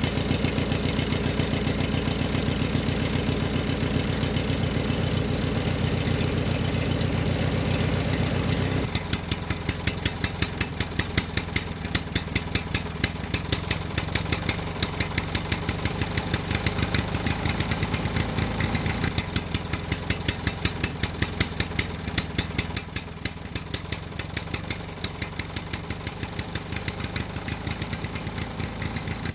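Small engine of a homemade mini tractor running with a rapid, even firing beat. About nine seconds in, its deep low part drops away and the beat turns thinner and sharper. It gets a little quieter again later on.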